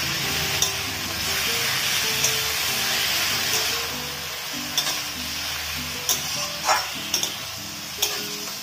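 Raw chicken pieces sizzling in hot mustard oil in a kadhai, with a spatula scraping and knocking against the pan now and then. The sizzle eases about halfway through as the meat cools the oil.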